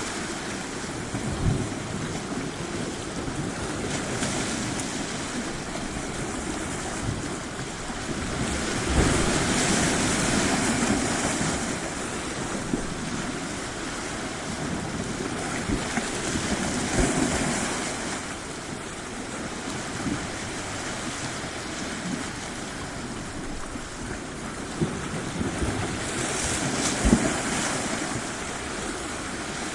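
Surf washing onto a shore, a steady rush that swells louder three times as larger waves come in. Occasional low thumps of wind buffet the microphone.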